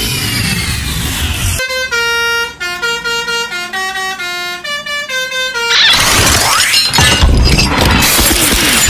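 A Basuri telolet bus horn playing a short tune of held notes, stepping up and down in pitch, for about four seconds. It is preceded by a noisy sweep that falls in pitch and followed by a loud noisy rush.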